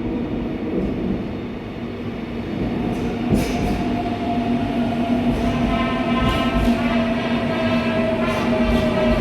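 Seoul Line 4 electric subway train moving through the station, its traction motors and inverter whining in steady humming tones. The sound grows louder from about three seconds in, with a single sharp click near that point.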